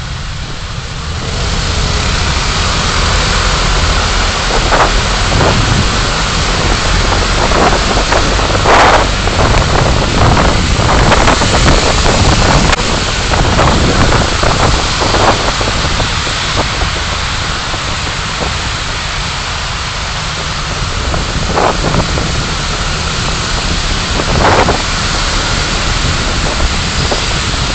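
Steady loud driving noise of a car heard through its dashcam, a dense hiss with low rumble, with scattered sharp knocks and ticks; it grows louder about a second and a half in.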